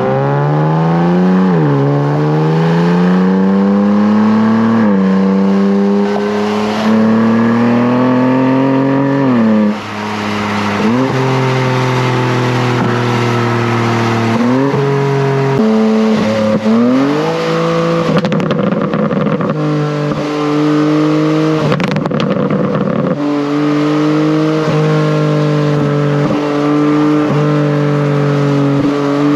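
BMW M3 Competition (G80) twin-turbo straight-six engine and exhaust under acceleration. The note rises and drops sharply at each upshift, about six times through the first half. After that it holds a steady pitch at a cruise.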